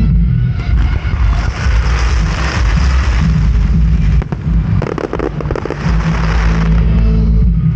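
Fireworks going off: a run of sharp cracks about halfway through over a steady low rumble.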